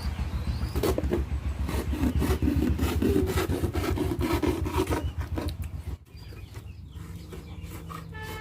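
Rapid, rhythmic scraping strokes that stop abruptly about six seconds in, followed by quieter scraping.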